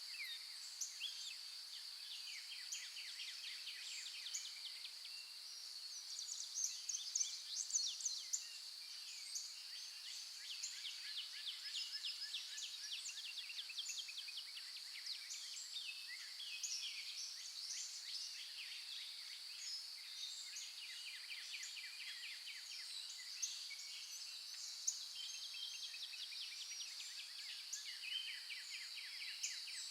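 Dawn chorus of several songbirds, with dense overlapping chirps and trills. A steady high-pitched drone runs underneath throughout.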